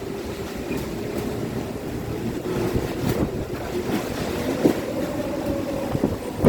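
Typhoon wind gusting hard, buffeting the microphone, with a faint steady whistle under the rush and sharper gusts building toward the end.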